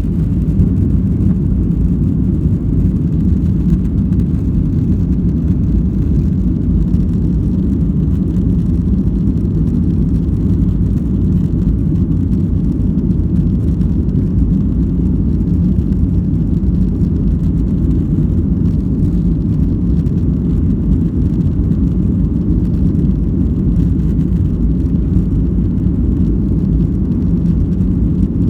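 Steady low rumble of a Flydubai Boeing 737 airliner's jet engines and airflow, with no rise or change in pitch.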